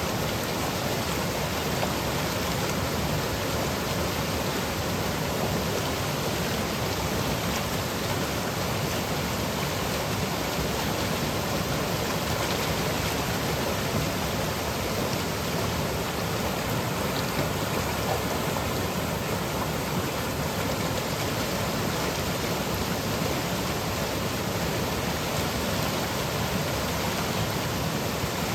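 Seasonal monsoon stream flowing and cascading over rocks and pebbles: a steady, even rush of water.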